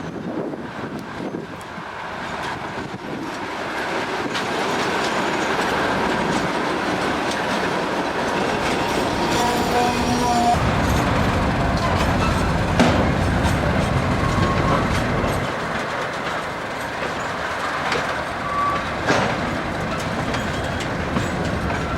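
A diesel-hauled freight train approaching and passing: the sound builds over the first few seconds, the locomotives' heavy engine rumble is loudest about halfway through, and wagon wheels clatter over the rail joints.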